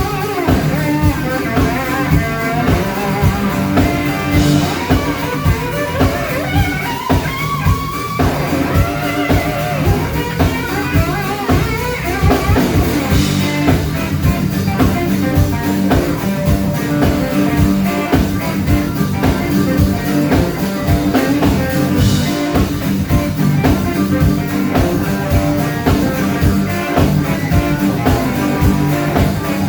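Band playing a blues-rock instrumental passage: guitar over a drum kit with a steady beat, with a bright accent about every nine seconds.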